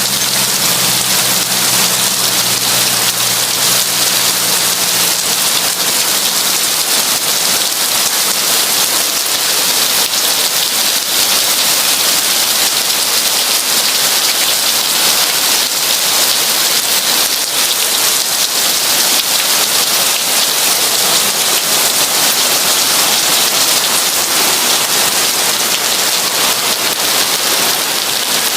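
Heavy rain falling steadily, a dense hiss of many drop impacts. A faint low hum underneath fades out in the first few seconds.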